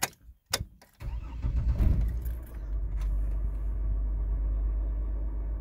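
Keys clicking in the ignition, then the GMC Envoy XUV's engine cranks and fires about a second in and settles into a steady idle.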